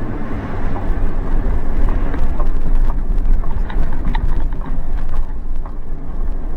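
A car driving slowly, heard as a steady low rumble of engine and tyres with scattered light clicks and ticks.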